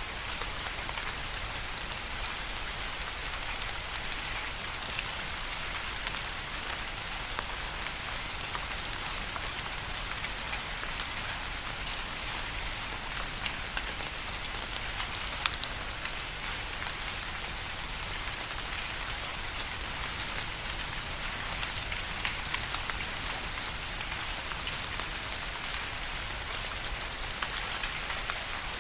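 Steady rain falling, with a constant hiss and many small, sharp drop ticks scattered through it.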